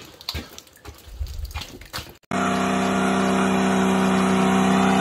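A Chevrolet Nova's engine held at steady high revs during a burnout, starting suddenly about two seconds in, after a few faint knocks.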